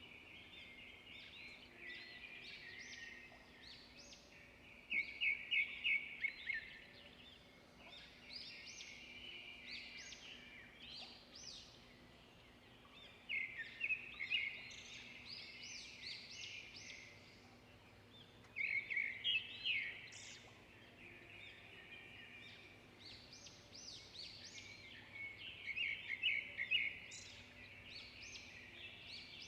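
Several songbirds chirping and singing in an overlapping chorus, with four louder bursts of rapid repeated notes spread through it.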